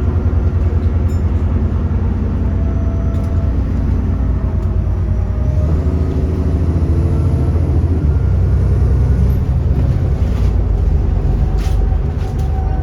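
Alexander Dennis Enviro400 double-decker bus engine pulling under load, its drone shifting pitch a little before halfway as the automatic gearbox changes gear. A faint high turbo whistle rises from about halfway through.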